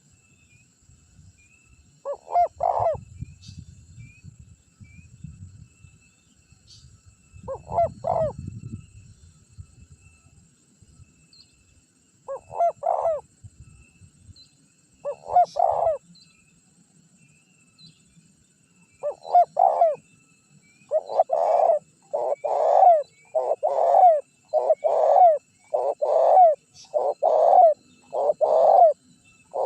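Spotted dove (tekukur) cooing. A few single coo phrases come several seconds apart, then from about two-thirds of the way in a quick, louder run of coos about one a second. A low rumble sits under the first two phrases.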